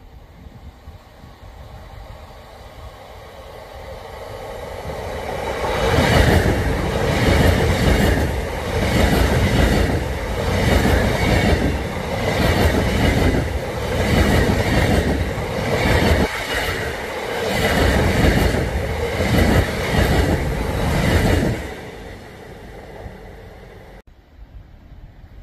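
LNER Azuma high-speed train passing close by at speed. It grows louder as it approaches, then gives a loud rush of wheels and air with a regular pulsing about every second as the coaches go by, and drops away sharply as the tail passes.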